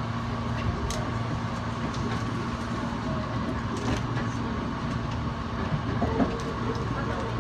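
Hankyu Railway electric train running, heard from inside the car at the front: a steady rolling rumble with a low hum, and sharp clicks of the wheels crossing rail joints and points, the clearest about 1, 4 and 6 seconds in.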